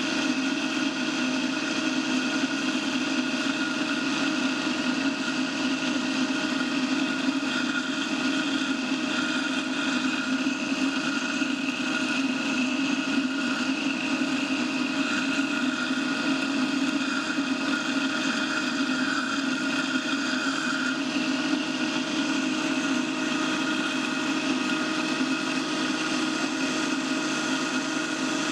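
A steady mechanical drone at an even level, made of several constant tones like a motor running without change; it shifts slightly about two-thirds of the way through.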